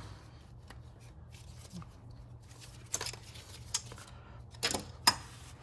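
Hand tools clicking and tapping against metal while a stuck coolant line is worked loose on an engine, a few scattered sharp clicks in the second half, the loudest about five seconds in, over a steady low hum.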